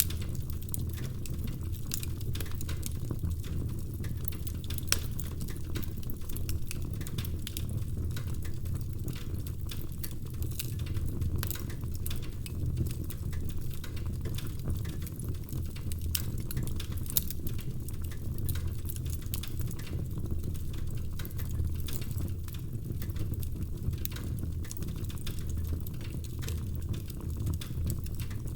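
Log fire crackling in a fireplace: a steady low rumble with many small, sharp, irregular pops and crackles scattered throughout.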